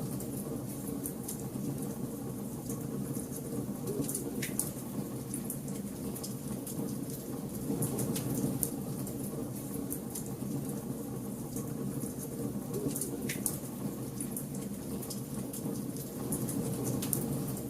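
Bonfire burning: a steady low rumble of flames with frequent crackles and sharp pops.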